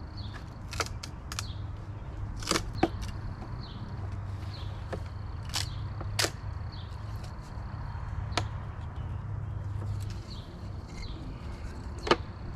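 Scattered sharp clicks and knocks as the lid of a package of bees is pried off and handled, over a steady low hum.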